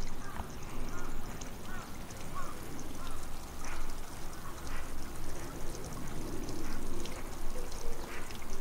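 A series of short bird calls, quacking like ducks, repeated every second or so over a steady background hum.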